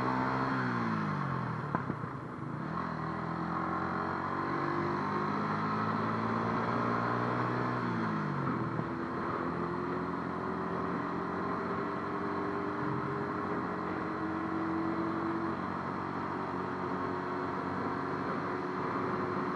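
Motorcycle engine under way, its pitch climbing as it pulls, then dropping sharply about a second in and again around eight seconds, with a slower steady climb afterwards. A steady rush of wind noise runs under it.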